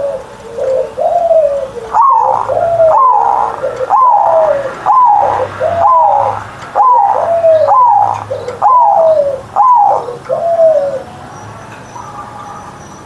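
Zebra dove (perkutut) singing: a couple of low wavering coos, then a run of about ten short cooing notes, each dropping in pitch, roughly one a second, stopping a couple of seconds before the end.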